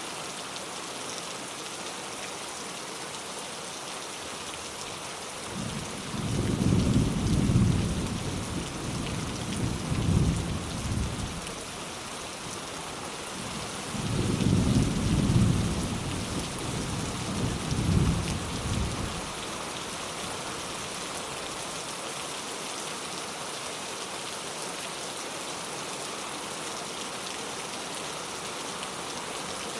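Steady rain with two rolls of light thunder: a low rumble swells about six seconds in and lasts some five seconds, and a second one comes around fourteen seconds in and lasts about as long.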